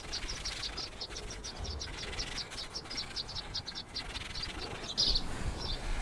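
A bird chirping in a rapid run of short high notes, about five or six a second, with a louder burst of chirps about five seconds in.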